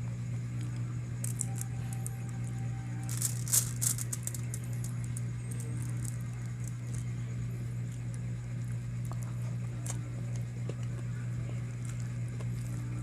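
A cluster of small clicks and rattles about one to four seconds in, with a few scattered clicks later, over a steady low hum.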